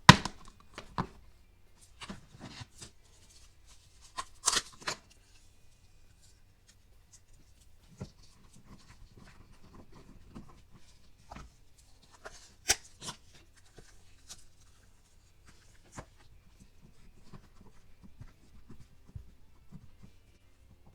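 Hands working Play-Doh with plastic toy molds and tools: scattered light clicks, taps and rustles, with a few sharper plastic clicks, one right at the start, one about four seconds in and one about twelve seconds in.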